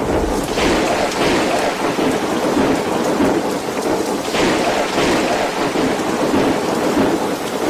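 Violent storm: heavy rain and wind in a loud, steady rush with rumbling swells.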